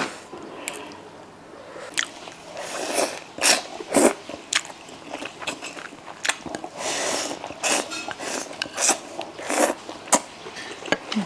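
Close-miked eating: biting and chewing mouthfuls of spicy wide noodles and rice, with many small wet mouth clicks.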